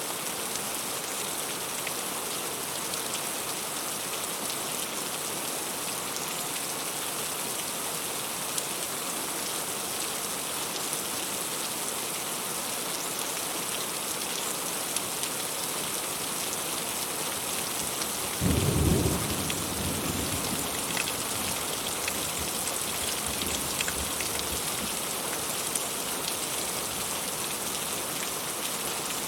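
Heavy rain falling steadily, with a single clap of thunder about two-thirds of the way through that rumbles away over a few seconds.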